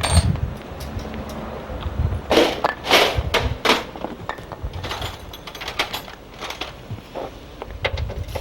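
Irregular metal knocks, clicks and short scrapes of hands and tools working on a car during an engine removal, with a cluster of louder scrapes a couple of seconds in.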